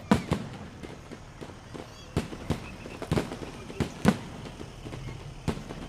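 Aerial fireworks bursting in an irregular series of sharp bangs, about eight over six seconds, with the loudest near the start and about four seconds in.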